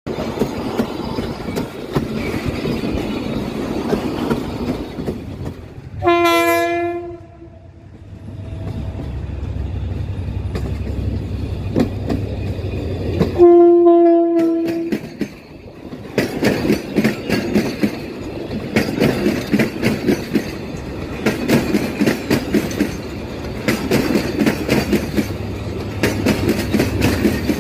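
Passenger train running past close by: a steady rumble, two horn blasts about seven seconds apart with the second louder, then a fast, irregular clatter of the coaches' wheels over the rail joints for the last ten seconds or so.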